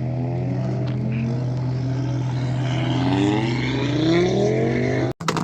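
An old Audi quattro's five-cylinder engine accelerating, its pitch climbing steadily for a second or two over a steady low engine hum. The sound cuts out abruptly near the end.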